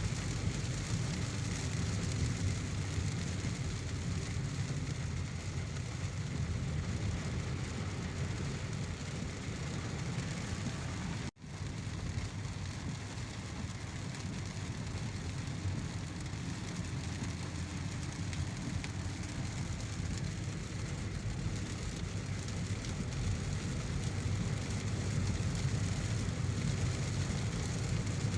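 A car driving in heavy rain: steady rain hiss over a low rumble of road and engine noise. The sound cuts out for an instant about eleven seconds in.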